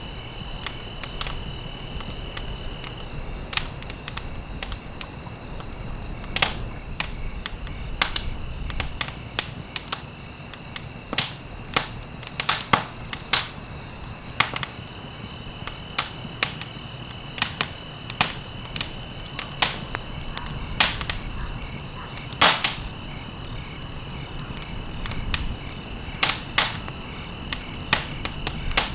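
Wood fire crackling in a fireplace: irregular sharp pops and snaps over a low steady rumble, with a faint steady high-pitched tone underneath.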